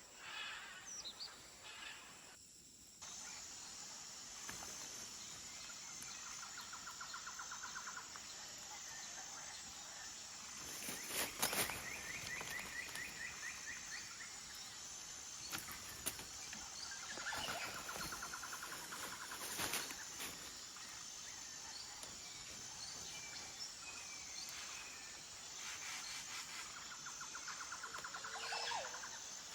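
Forest ambience: a steady high-pitched insect drone with an even pulsing pattern sets in about three seconds in, while a bird gives a rapid trill of evenly repeated notes four times. A few sharp clicks stand out, the loudest near the middle.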